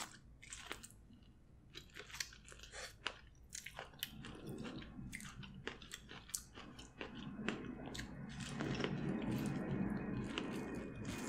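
Close-miked chewing and biting of a sauce-coated piece of corn on the cob: wet mouth clicks and kernel crunches. The chewing grows louder and denser in the last few seconds.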